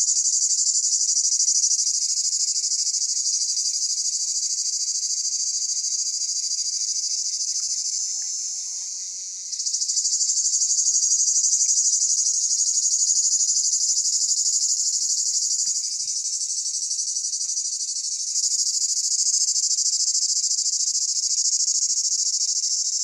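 Cicadas singing in a loud, continuous high-pitched buzz that eases off and then swells back twice, about nine seconds in and again about eighteen seconds in.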